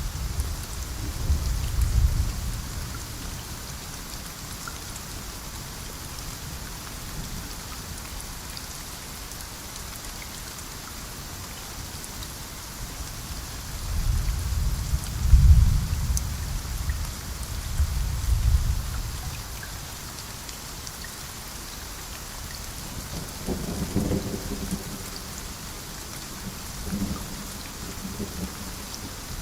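Steady heavy rain with rolls of thunder: deep rumbles swell and fade at the start, twice in the middle, and once more toward the end.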